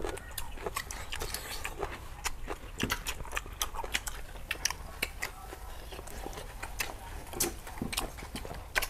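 People chewing and smacking their lips while eating roast pork, rice and raw vegetables by hand: many small irregular clicks.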